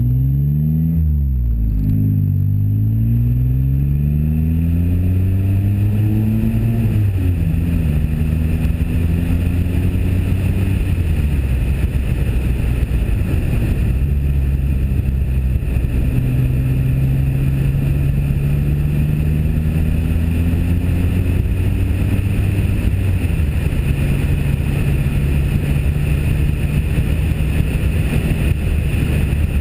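Pontiac Firebird's 3.8-litre V6 and exhaust under acceleration through a five-speed manual: the engine pitch climbs, drops at each upshift (about four times), then holds steady near the end as the car cruises. Wind buffeting on the camera microphone runs under it.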